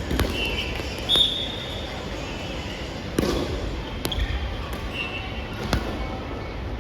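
Soft volleyball play in a gym: shoes squeak sharply on the court floor several times, mixed with scattered thuds of the ball being hit and feet landing.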